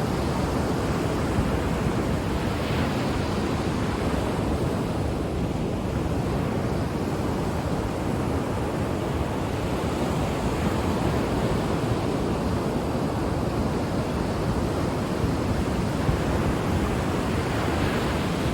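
Ocean surf breaking and washing onto the shore as a steady rushing hiss, swelling slightly about three seconds in and again near the end.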